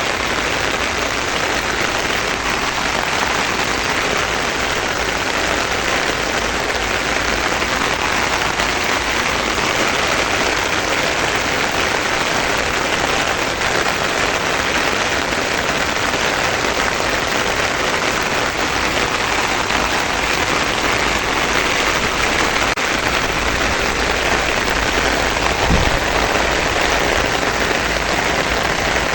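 Heavy monsoon rain falling steadily, a dense even hiss with no let-up. A short low thump sounds near the end.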